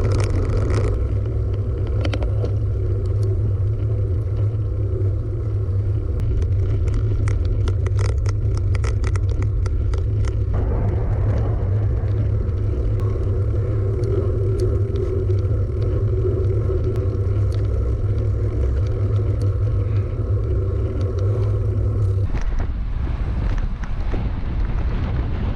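Wind rumbling steadily over a GoPro's microphone while cycling, with scattered ticks and clicks from the bike and road surface. The rumble thins slightly a few seconds before the end.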